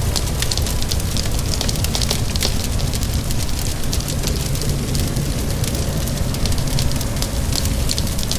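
Wood fire crackling with many small sharp pops over a steady low rumble of burning, mixed with a constant wash of rain.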